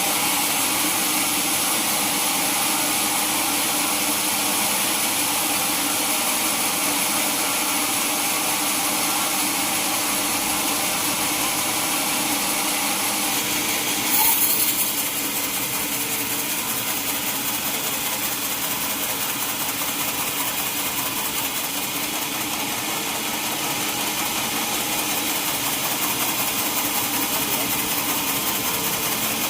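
Sawmill saw running steadily, with a brief louder jolt about halfway through.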